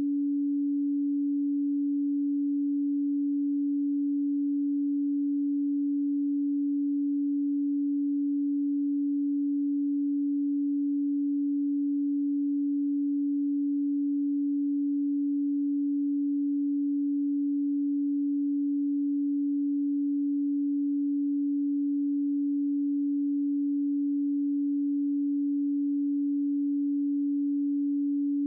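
A pure 285 Hz sine-wave tone, held steady at one pitch with no other sound.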